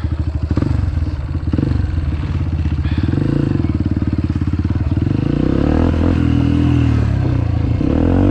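Dirt bike engine running under load as it is ridden, its pitch rising and falling with the throttle, then held higher and a little louder from about five seconds in.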